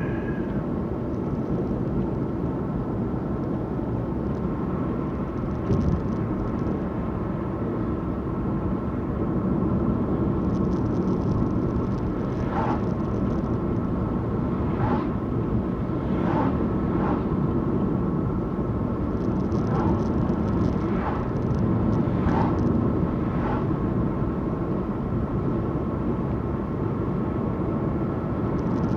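Car engine and road rumble heard from inside the cabin while driving at steady speed, with a handful of short faint clicks or rattles in the second half.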